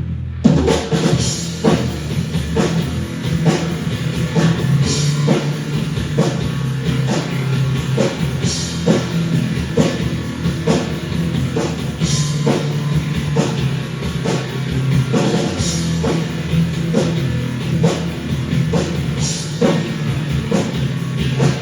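Rock music: a drum kit keeping a steady beat under guitar, kicking in about half a second in.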